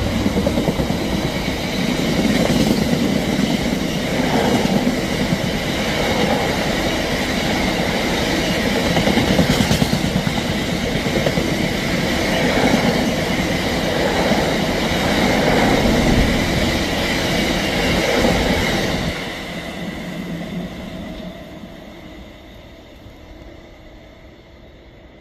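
Freight train of biomass hopper wagons rolling past close by: a steady rumble with the wheels clattering rhythmically over the rail joints. About 19 seconds in the last wagon passes, and the sound drops sharply and fades away.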